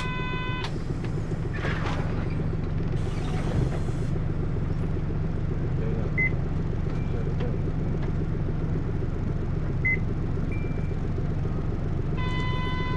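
Hino U-HT2MLAA city bus heard from inside, its diesel engine running with a steady drone; the uploader tags the bus as prone to abnormal noise, sounding like a worn-out bus near retirement. A short electronic chime sounds at the very start and again near the end, with two faint short beeps in between.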